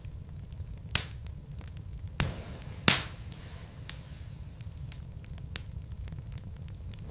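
Wood fire burning in a fireplace, logs crackling with irregular sharp pops, the loudest about three seconds in, over a low steady rumble.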